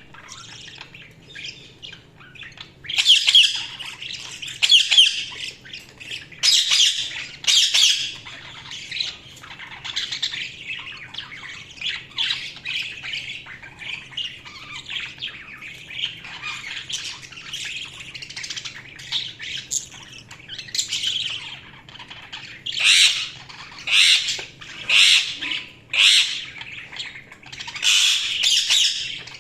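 Budgerigars chirping and warbling, a steady stream of high calls with louder bursts of squawks now and then.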